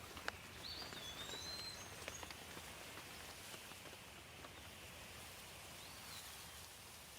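Steady light rain with scattered drops tapping, and a songbird giving a short whistled call about half a second in and another near six seconds.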